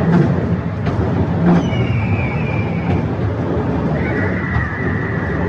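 Scenic World's steep incline railway car climbing, with a steady low rumble of wheels on the rails and a high metallic squeal. The squeal drops out for a moment and returns near the end, a second, higher squeal glides slightly down about one and a half seconds in, and scattered clicks come from the running gear.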